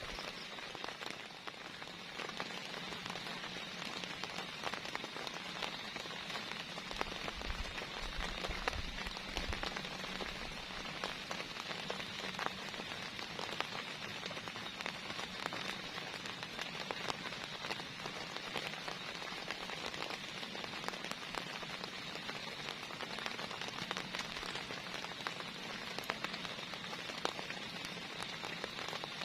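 Heavy rain falling steadily, with many small, sharp drop hits throughout.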